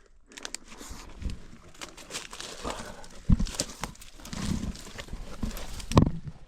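A person clambering up rock: boots scuffing and knocking on stone in irregular steps, with two louder thumps about three and six seconds in.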